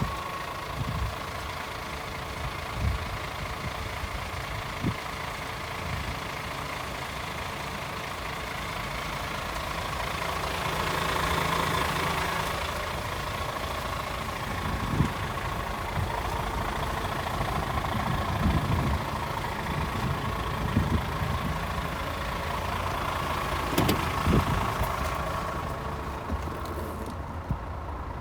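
DAF CF450 tractor unit's Paccar 450 bhp Euro 6 diesel engine idling steadily, swelling a little in level midway, with occasional low thumps and a sharp click near the end.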